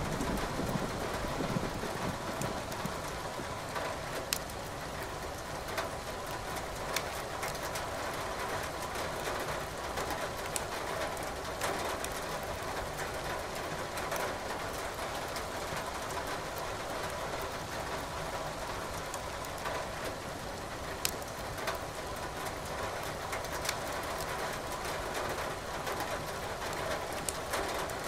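Steady rain with firewood crackling in a fireplace, giving sharp pops every few seconds. A low rumble dies away in the first couple of seconds.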